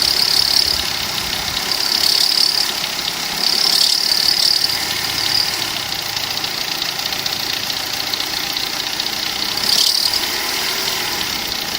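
Opel Corsa B engine running just above idle with the air-conditioning compressor engaged, and a high-pitched squeal from the engine bay coming and going in bursts of about a second, four times. The squeal appears only while the A/C compressor is switched on.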